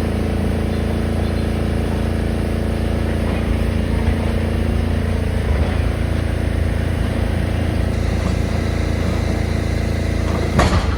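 Diesel engine of heavy demolition machinery running steadily, with a short, louder crunch near the end.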